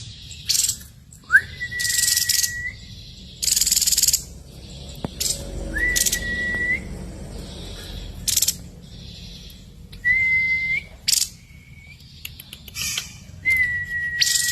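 Grey-headed babbler (tepus kepala abu) singing: four long, clear, level whistles, each opening with a quick upward slide, spaced a few seconds apart, with short harsh hissing bursts in between.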